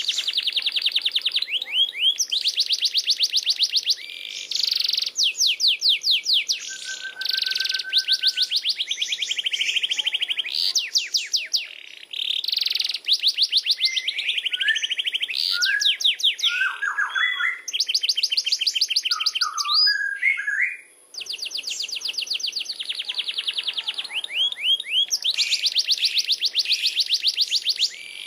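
Domestic canary singing a long, continuous song of fast rolling trills, one phrase straight into the next, with only a couple of brief breaks.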